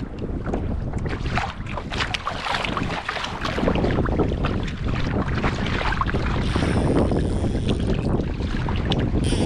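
Wind buffeting the microphone, with water sloshing and splashing against a kayak's hull in choppy seas.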